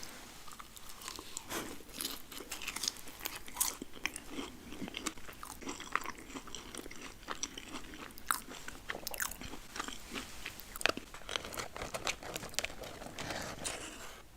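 Close-miked eating: crunchy bites and wet chewing of fast food, with many irregular crackles.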